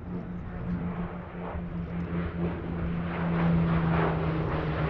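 Hawker Hurricane's Rolls-Royce Merlin V12 engine in flight, a steady drone that grows louder about three seconds in.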